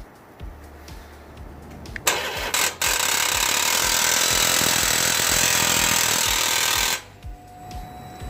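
A loud, harsh engine noise starts suddenly about two seconds in, holds steady for about four seconds and cuts off abruptly. Faint background music with a steady beat runs under it.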